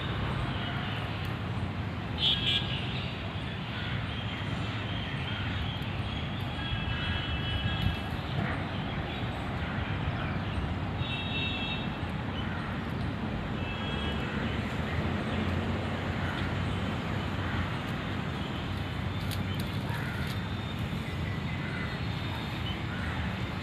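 Steady road traffic rumble, with a few short, high toots or calls breaking through now and then.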